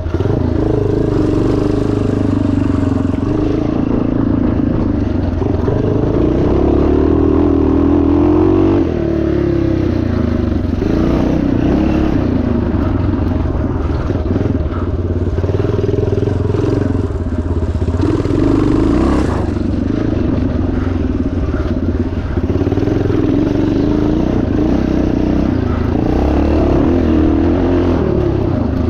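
1977 Yamaha TT500's single-cylinder four-stroke engine running hard, its pitch rising and falling over and over as the throttle is opened and shut, with a brief dip about nine seconds in.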